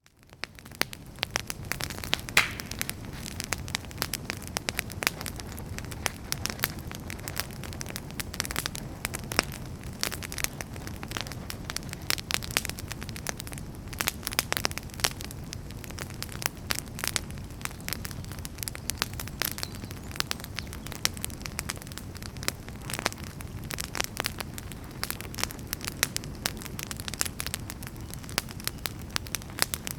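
Wood fire crackling in a fireplace: dense, irregular pops and snaps over a steady low rumble of the flames. It fades in from near silence in the first second.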